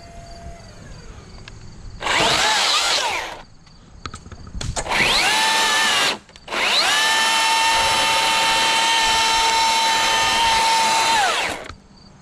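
Milwaukee battery chainsaw run in three bursts, the last about five seconds long. Each time the motor whine rises quickly, holds a steady pitch, then winds down as the trigger is let go.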